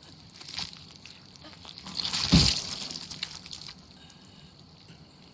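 Film soundtrack: a person tumbling down a slope, with a heavy thud about two and a half seconds in and a rush of crunching, scraping noise around it that fades away.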